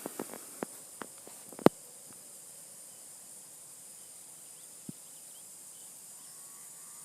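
Faint, steady, high-pitched hiss with a few sharp clicks in the first two seconds and one more about five seconds in.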